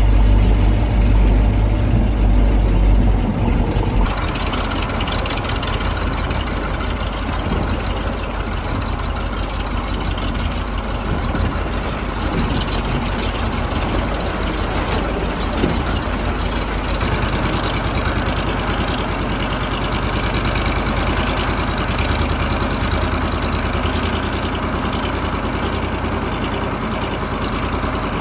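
1985 KAMAZ 4310 6x6 truck's V8 diesel engine running steadily during an off-road drive. For the first few seconds it is a deep, muffled rumble; about four seconds in, the sound abruptly turns brighter, with more hiss and clatter over the engine.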